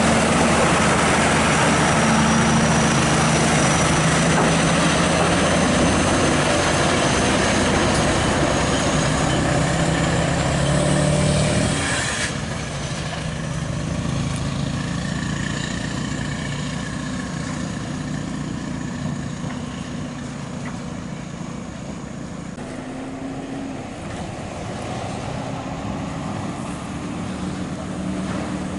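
Scania R580's V8 diesel truck engine running under load, with a whine that slowly rises in pitch. About twelve seconds in, the sound drops off suddenly, and the engine carries on more quietly.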